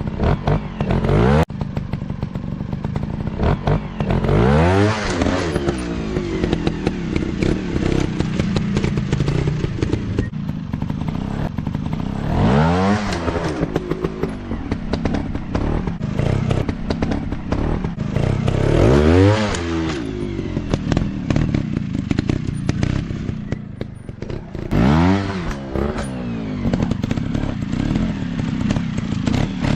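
Single-cylinder off-road trail motorcycle engines running, revving up and dropping back in bursts about every six seconds, with clattering and thuds between.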